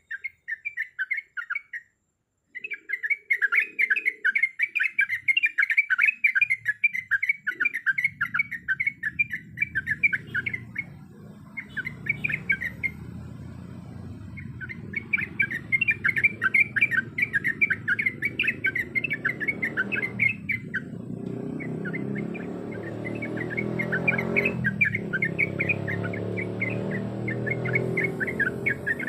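Yellow-vented bulbul (trucukan) singing long runs of rapid, bubbling chattering notes, broken by short pauses. From about a quarter of the way in, a low background rumble rises beneath the song and grows louder toward the end.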